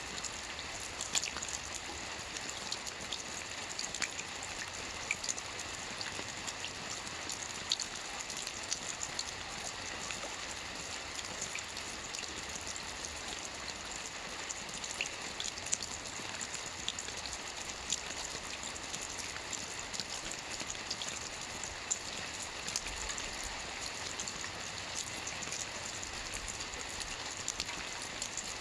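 Steady rain falling on a lake's surface: a constant hiss dotted with many individual drop ticks and patters.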